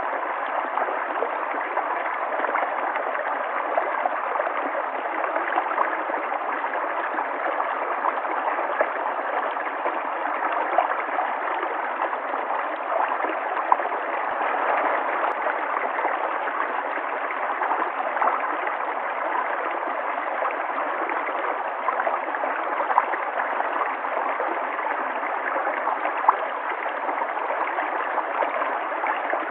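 River water flowing in a steady, even rush, with small gurgles and splashes flecked through it.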